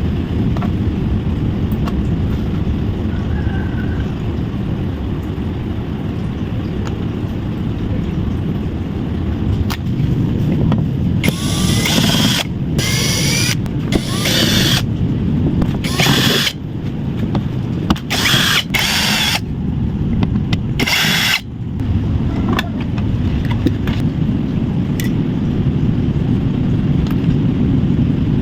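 Cordless power screwdriver or drill run in about seven short bursts of under a second each, between about eleven and twenty-one seconds in, over a steady low rumble.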